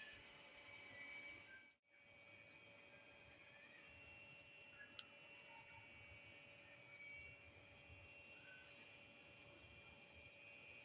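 A bird giving six short, high chirps, each sweeping downward, about a second apart with a longer gap before the last, over a faint steady background hum.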